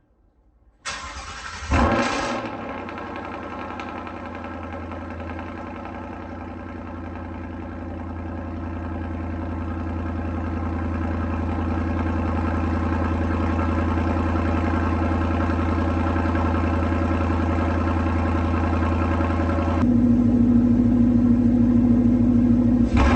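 Ford Mustang GT's 5.0 V8 starting through a new MBRP race exhaust and Roush cold air intake: it fires about a second in with a brief rev flare, then idles steadily, slowly growing louder, and the idle note changes near the end.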